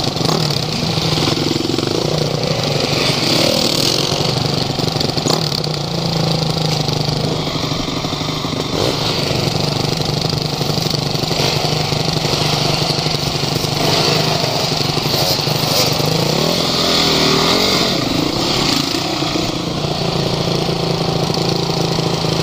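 Off-road vehicle engine running steadily and loudly. Its pitch rises and falls as it revs, a couple of seconds in and again in the last third.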